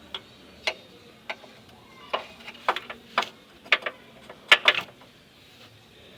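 Hand tools clicking and tapping on metal: about a dozen short, sharp clicks at uneven spacing, the loudest pair about four and a half seconds in, stopping about five seconds in.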